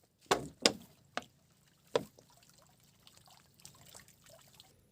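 Water splashing in a shallow ditch: four short splashes in the first two seconds, then only faint small sounds.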